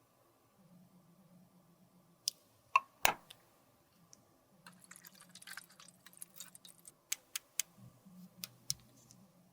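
Sharp clicks and taps of small hard tools and makeup containers being handled, with a couple of loud taps near the start and a crackly, scratchy stretch of scraping in the middle.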